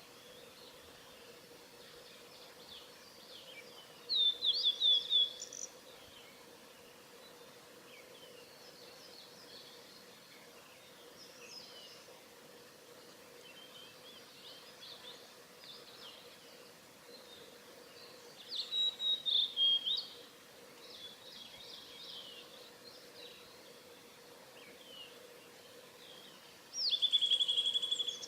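Male blue-and-white flycatcher singing: three loud phrases of quick whistled notes, a few seconds in, about two-thirds through, and at the end. Fainter bird song carries on between the phrases.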